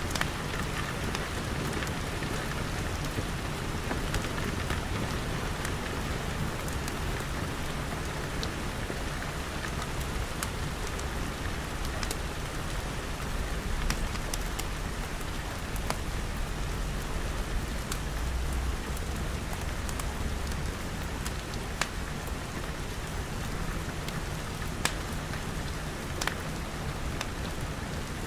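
Steady rain pattering on glass, with a crackling wood fire: scattered sharp pops over the even hiss of the rain. A low rumble swells about two-thirds of the way through.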